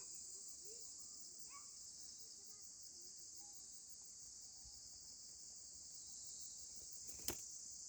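Faint, steady high-pitched insect chorus, like crickets, with a few soft bird chirps in the first couple of seconds. A single sharp click sounds about seven seconds in.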